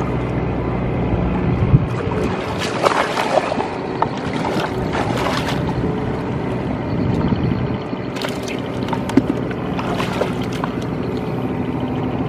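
Tractor engine running steadily, dropping back about two seconds in, with scattered short knocks and clicks over it.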